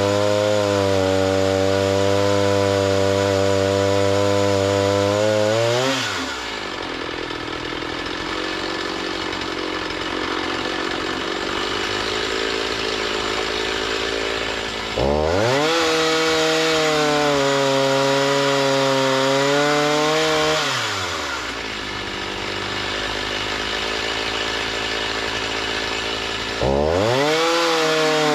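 A gas engine-driven saw milling a log into lumber. The engine runs steadily at speed, then its pitch drops as the blade takes the load of the cut at about 6 seconds and again at about 21 seconds, with a hissing cutting noise. It revs back up as the load comes off at about 15 seconds and near the end.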